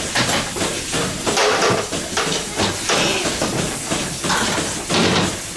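Goat milking parlour: the milking machine's vacuum hissing, with irregular knocks and clatter throughout.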